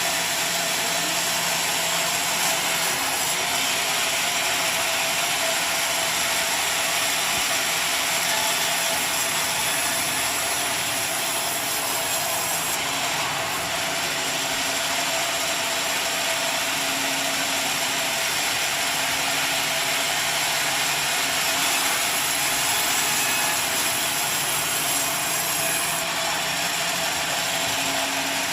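Portable sawmill running with a steady, even noise, as when sawing mahogany logs into lumber.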